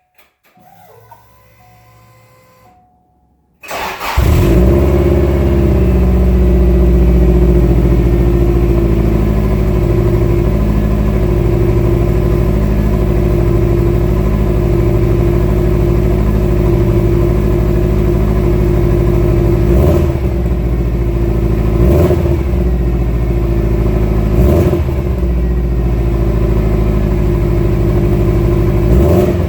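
Subaru Impreza STi Version 5's EJ207 turbocharged flat-four, breathing through a catless downpipe and a Fujitsubo Legalis Super R exhaust, starts up about four seconds in after a few quiet seconds. It then runs at a steady idle, with a few short throttle blips in the second half.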